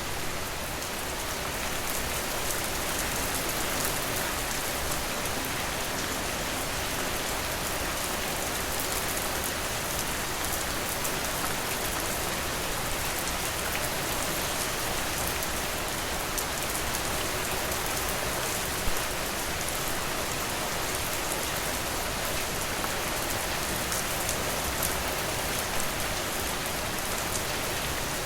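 Steady rain falling and pattering on surfaces, with a dense hiss of drops and a few louder single drops now and then.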